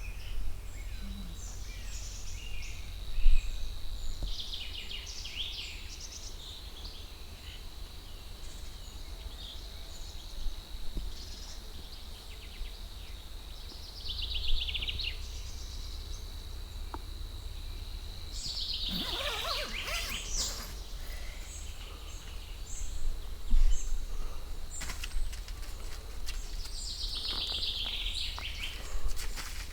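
Wild birds singing in woodland, with short chirping phrases a few seconds apart, the busiest about two-thirds of the way in. A thin, steady high tone runs under them until about two-thirds of the way through, over a steady low rumble.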